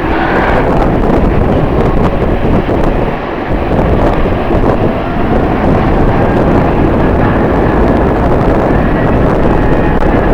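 Strong wind blowing hard across the microphone, a loud, steady rumble that barely lets up.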